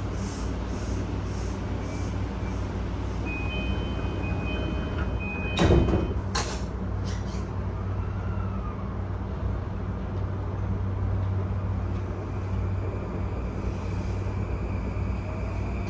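Inside an E235-1000 series electric train: a steady low hum, with a brief high electronic tone a few seconds in and one loud thump a little before the middle.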